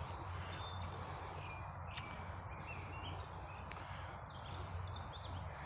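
Small songbirds chirping in short, scattered calls, with a few quick sweeping notes about four to five seconds in, over a steady low background rumble.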